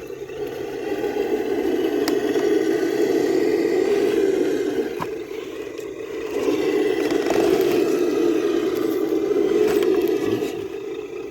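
Traxxas TRX-6 six-wheel RC crawler driving: its electric motor and geared drivetrain whirring, with tyres scraping over the course. It eases off briefly about six seconds in, then picks up again.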